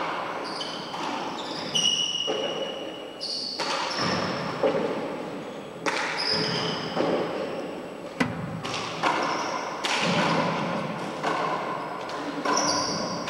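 Four-wall handball rally: a hard rubber handball smacks the court walls and floor again and again, each hit sharp and echoing in the enclosed court, with short high squeaks of shoes between the hits.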